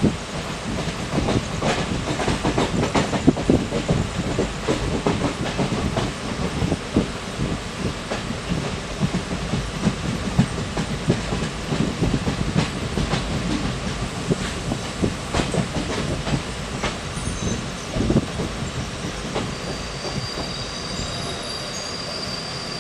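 Passenger train running at speed, heard from aboard: a steady rumble with the irregular clickety-clack of wheels over rail joints. A faint high steady whine comes in near the end.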